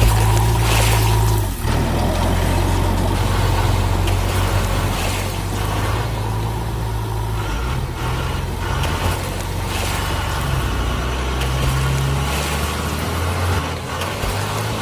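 A steady low engine-like rumble that shifts in pitch now and then, with hiss over it.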